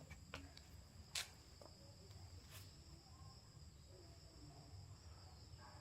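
Faint, steady high-pitched chirring of crickets or other insects at dusk. A few soft clicks stand out, the sharpest a little over a second in.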